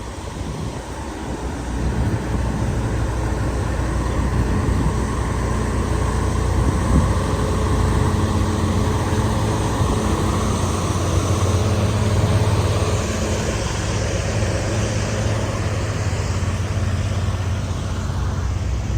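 Semi-truck's diesel engine running at a steady speed, a constant hum that grows a little louder about two seconds in.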